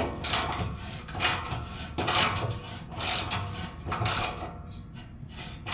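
A 3/8-inch hand ratchet with a 12 mm socket clicking in short bursts, about one a second, as it is swung back and forth to loosen the skid plate's hex bolts.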